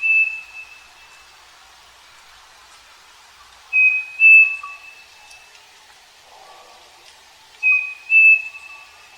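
Striped cuckoo (saci) singing its clear two-note whistled song, the second note a little higher and longer, three times at about four-second intervals. Faint short lower notes from another bird sound between the songs.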